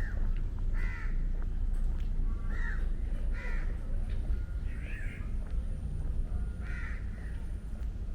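A crow cawing, about six harsh calls at irregular intervals, over a steady low rumble.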